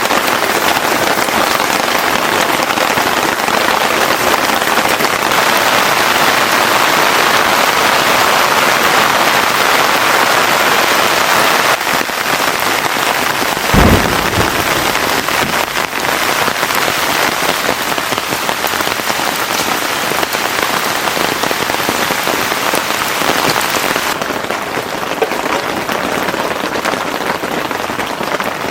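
Heavy rain pouring steadily, with a single brief low thump about halfway through.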